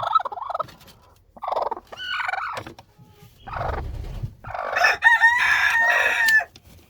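Chickens calling: several short squawks, then one long crow-like call about five seconds in lasting about a second and a half, the loudest sound.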